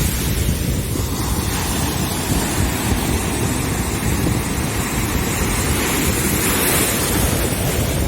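Wind buffeting the microphone with a steady low rumble, over the hiss of ocean surf that swells about six seconds in.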